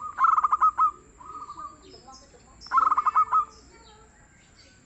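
Zebra dove (perkutut) cooing: two loud runs of quick, stuttering mellow notes, with a softer coo between them. Faint high chirps from other birds sound in the background.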